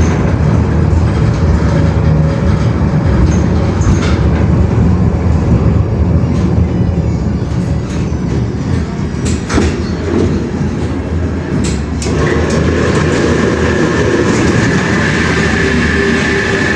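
Train running with a steady loud low rumble; about twelve seconds in a steady high whine joins it and holds to the end.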